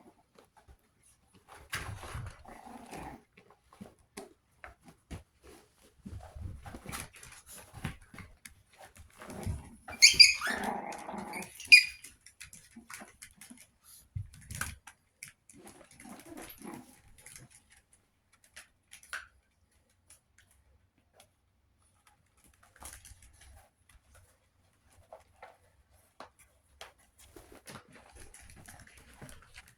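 Chihuahua puppies moving about and playing, making scattered scuffling and small noises. The loudest sounds come in a short burst about ten seconds in.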